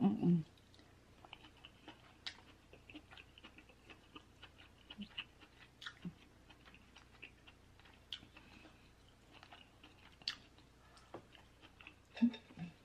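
Close-miked chewing and wet mouth smacks of someone eating crab meat, with many small soft clicks scattered throughout. A short voiced sound right at the start and again near the end.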